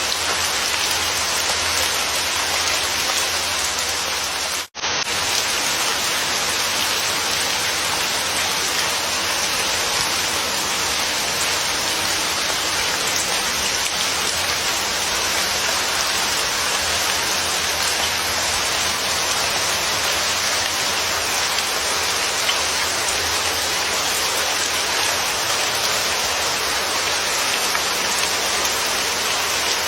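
Steady, dense rainfall hissing without letup, with a momentary dropout in the sound about five seconds in.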